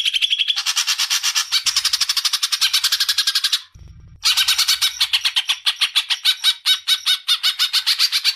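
Songbird singing long, rapid trilling phrases of fast-repeated notes. It breaks off about four seconds in, then starts again with a second phrase of quick, separate chips.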